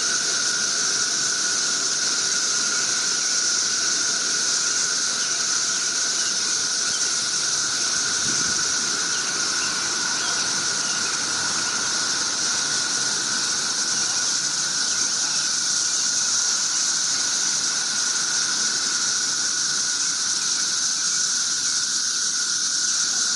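Loud chorus of cicadas: a steady, unbroken high-pitched drone with a lower buzzing tone beneath it.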